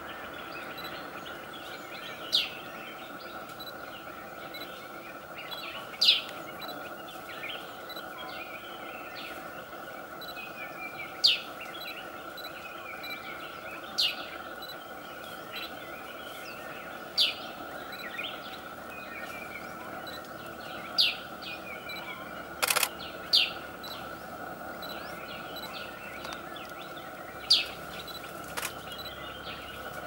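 A bird giving a short, sharp, high call about every three to five seconds over a steady background hum, with one sharp click about three-quarters of the way through.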